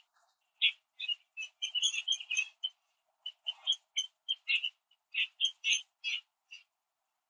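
Small birds chirping: a run of short, irregular chirps, some in quick clusters.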